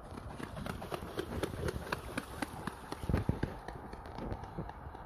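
A swan charging across the water after a rival, its feet and wings slapping the surface in a fast run of strokes, about four or five a second. The strokes are loudest about three seconds in.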